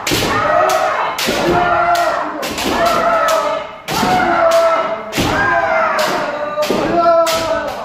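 Kendo sparring: drawn-out kiai shouts from several fencers, each rising and falling in pitch, over a rapid series of sharp cracks from bamboo shinai striking armour and feet stamping down with the strikes.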